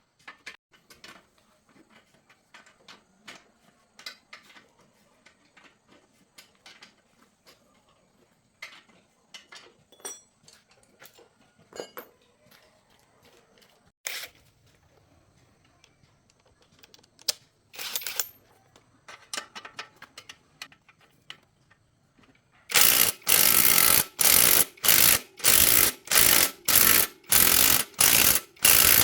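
Scattered light clicks and taps of hand work on metal parts. About 23 seconds in, a run of about a dozen loud, rhythmic scraping strokes starts, roughly two a second, like sanding or scrubbing a part by hand.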